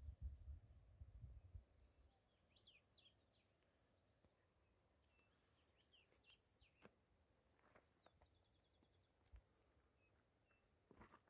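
Near silence with faint wild birds calling: a few short falling chirps and, past the middle, one brief rapid trill. A low rumble, like wind or handling on the microphone, fills the first second or so.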